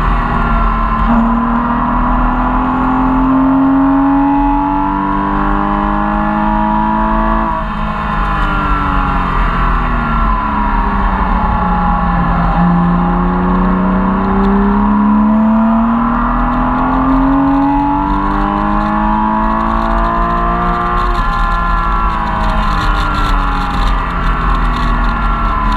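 Porsche Cayman S engine heard from inside the cabin under hard track driving: it revs up through a gear, drops sharply at an upshift about seven seconds in, winds down, then climbs again to a second upshift about twenty-one seconds in, with road and tyre noise underneath.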